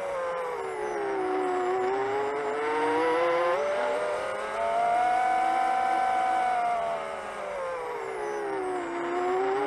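FPV quadcopter's motors whirring in flight. The pitch falls for about a second and a half, rises for about three seconds, then falls again and rises near the end as the throttle changes.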